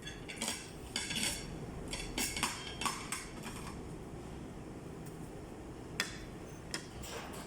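Cutlery clinking and scraping against dishes while eating: a quick run of small clinks in the first few seconds, then two single clinks near the end.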